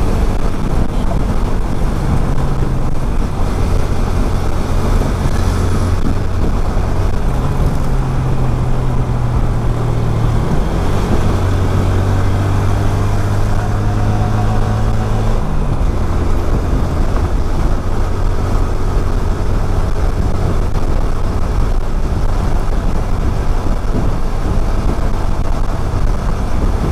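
Motorcycle riding in traffic, its engine running at a steady cruising note that shifts pitch a few times, with wind rushing over the microphone throughout. The engine tone fades into the wind noise a little past halfway.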